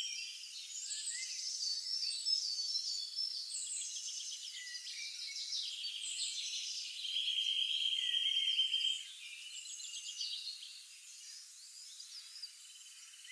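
Several songbirds chirping and calling at once, high and overlapping, with a steady buzzing trill held for about two seconds near the middle. The chorus gets quieter after about nine seconds.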